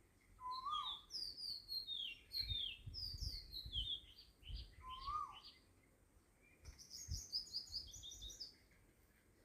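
Birds chirping: many quick high chirps, mostly falling in pitch and overlapping, in two bursts, with a lower call that rises and falls about half a second in and again near the middle. A few soft low thumps lie beneath.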